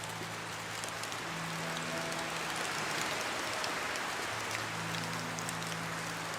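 Steady rain hissing, with faint drop ticks, over soft background music of long-held low notes that change twice.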